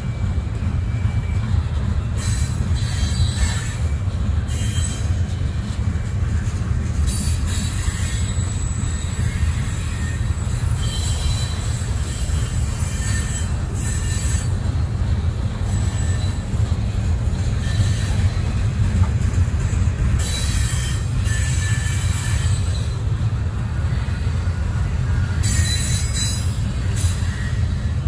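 Freight train cars rolling past on the rails, a steady low rumble of wheels and cars. Over it come bursts of high-pitched wheel squeal, each lasting a second or two, several times, notably around 3, 8, 12 to 14, 20 and 26 seconds in.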